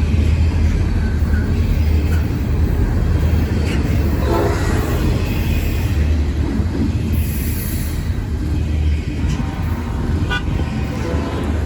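Diesel locomotives rumbling steadily as a train approaches, with a short horn blast about four seconds in.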